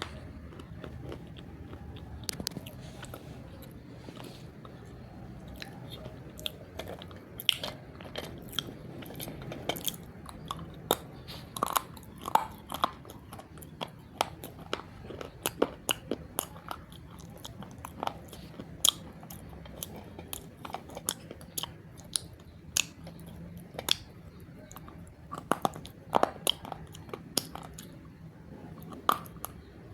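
Roasted multani mitti (Fuller's earth clay) being bitten and chewed close to the microphone: many sharp, irregular crunches, some in quick clusters.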